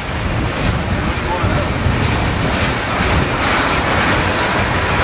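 Freight train cars, covered hoppers and boxcars, rolling past close by: a steady rumble and clatter of steel wheels on the rails.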